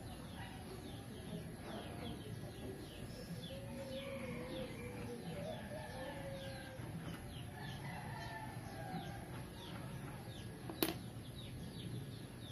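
Birds calling throughout: quick, repeated falling chirps, with lower wavering clucking calls in the middle. One sharp click sounds a little before the end.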